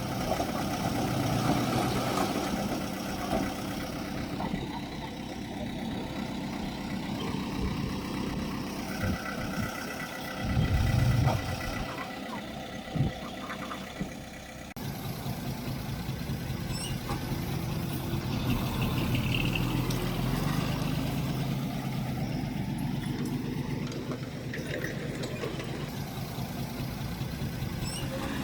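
Diesel engine of heavy earthmoving machinery running steadily. There is a louder, deeper surge about ten seconds in, and the sound changes abruptly about halfway through.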